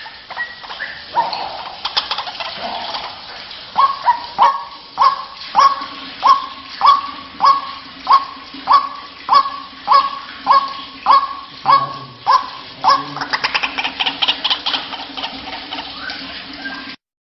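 White-breasted waterhen calling: a rhythmic series of loud, harsh calls at about one and a half a second, breaking into faster, denser calling near the end, then cutting off suddenly.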